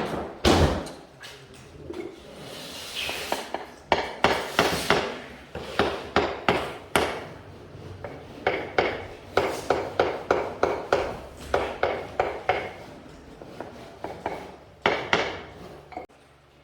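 Repeated hammer knocks, in quick runs of about two to three strikes a second, with a short scraping sound about three seconds in.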